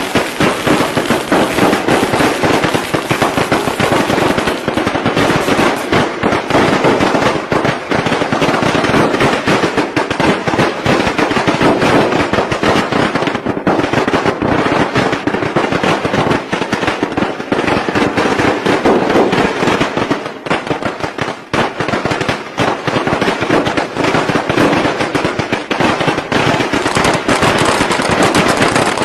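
Strings of traditional Vietnamese Tet firecrackers going off in a dense, continuous rapid crackle of sharp bangs, thinning briefly about two-thirds of the way through.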